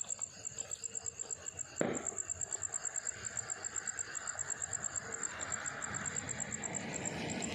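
An insect chirping in a fast, steady pulse, about seven chirps a second. A sudden knock comes about two seconds in, followed by a rushing noise that slowly grows louder.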